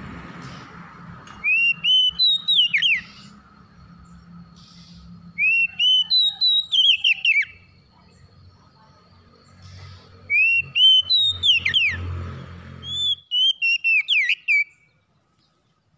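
Oriental magpie-robin (kacer) singing: the same loud whistled phrase of quick rising and falling sweeps, given four times. The song stops about a second before the end.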